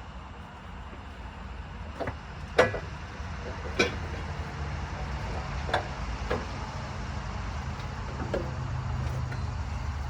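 Irregular metal clanks and knocks, about six over several seconds with the loudest a ringing clank early on, as a CV axle is worked out of a Silverado 2500 HD. A steady low rumble runs underneath.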